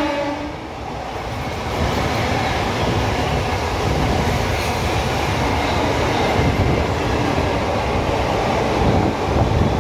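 The tail of an electric locomotive's horn, dropping in pitch, cuts off in the first half-second. Then an express train runs through at speed, with a steady rumble of wheels on rail as its coaches pass.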